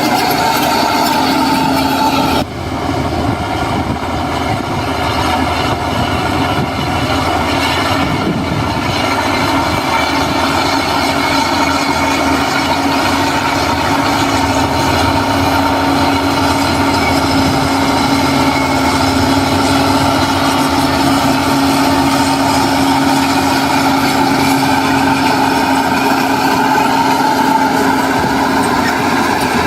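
Heavy construction machinery running steadily: a diesel engine under continuous load with a held mechanical whine, dipping briefly about two seconds in.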